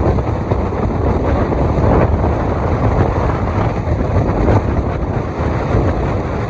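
Strong blizzard wind blowing hard across the microphone: a loud, steady rush of wind noise, heaviest in the low end.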